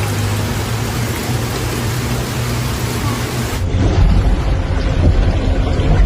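Heavy rain: a loud, even hiss with a steady low hum beneath it. About three and a half seconds in it cuts to a duller, deeper rushing and rumbling of storm noise.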